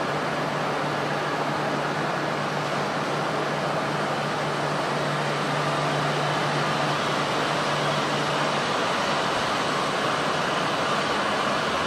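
Tohoku Shinkansen train moving slowly past a station platform: a steady rushing hum of running gear and air. A low drone underneath fades out about two-thirds of the way through, and the rushing grows slightly louder.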